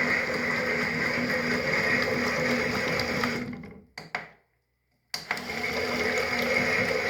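Toy washing machine's small electric motor running, whirring steadily as it turns the drum. About three and a half seconds in it winds down, two light clicks follow, and after a short pause it starts up again suddenly, as the wash cycle stops and restarts the drum.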